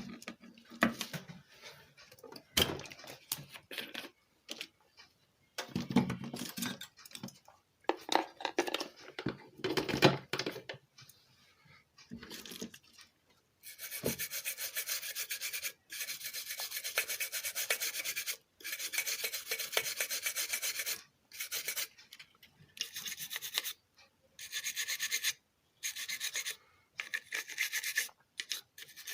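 Scrubbing and rubbing on a circuit board to clean the freshly soldered joints: irregular rubbing strokes at first, then from about halfway through a fast, rasping back-and-forth scrubbing in long stretches with short breaks.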